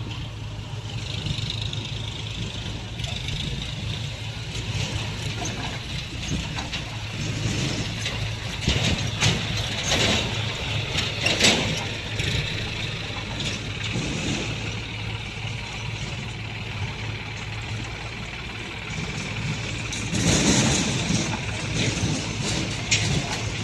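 Heavy diesel machinery running steadily: a backhoe loader working alongside tractors, with louder clattering knocks in the middle and again near the end.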